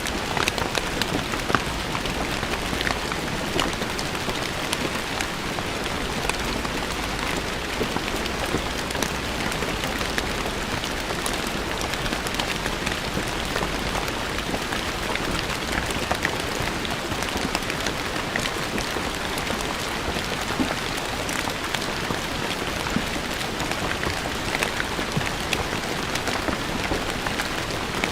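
Steady rain falling on stone paving, a dense patter of drops splashing on hard stone with many distinct individual drop hits.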